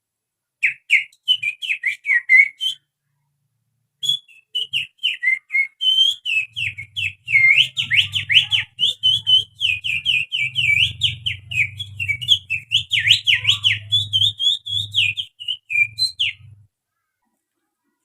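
A person whistling through the fingers in imitation of an oriental magpie-robin's song: quick chattering runs of sharply rising and falling whistled notes. The song breaks off for about a second near three seconds in, then runs on for over ten seconds with a low hum beneath it.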